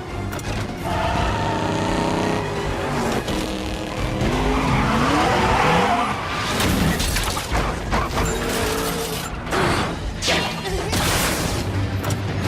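Action-film sound mix: car engines revving and tyres skidding, with several sudden crashing impacts in the second half, over dramatic music.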